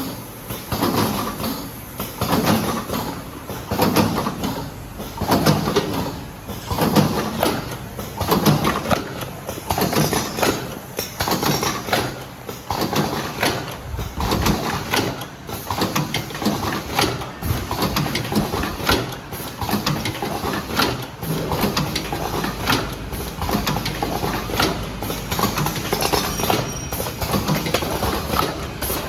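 JZH-160T automatic cartoning machine running, its mechanism clacking and knocking in a quick repeating rhythm as it packs boxes.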